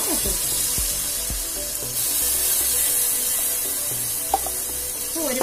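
Onion-tomato masala frying in hot oil in an aluminium pot, a steady sizzle that grows louder about two seconds in, with a wooden spatula stirring and one sharp tap against the pot about four seconds in.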